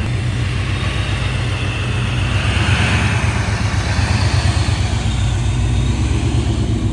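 Car engine running at low revs with a deep, pulsing exhaust rumble that grows slightly louder.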